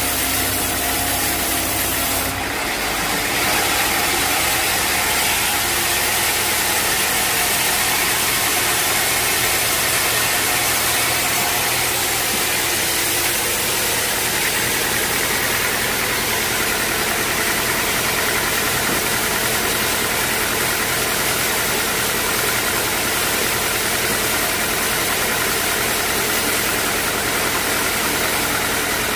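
Sawmill machinery running steadily. About two seconds in, a low hum gives way to a denser, hissing machine noise that holds to the end.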